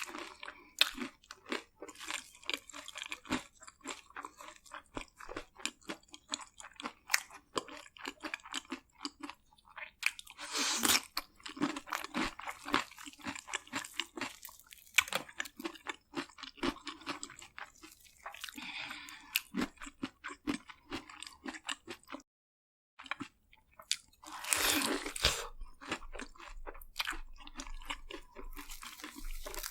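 Close-miked chewing of crispy fried food, with rapid wet crunches and clicks throughout. Two louder bursts of crunching come about 11 seconds and 25 seconds in, each likely a fresh bite.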